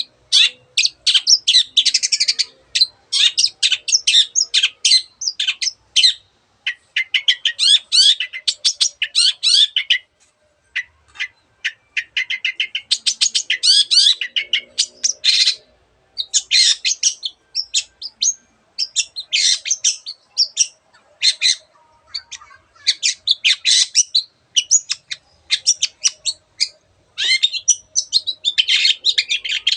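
Long-tailed shrike (cendet) singing a fast, varied run of high chirps and trills, with imitations of other birds' songs mixed in. The phrases are broken by a few brief pauses.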